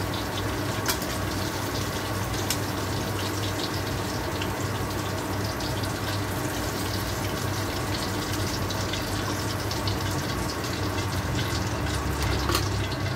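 Pork strips deep-frying in hot oil in a steel wok: a steady sizzle, with a few light clicks of a metal spatula against the wok as the strips are stirred and lifted out.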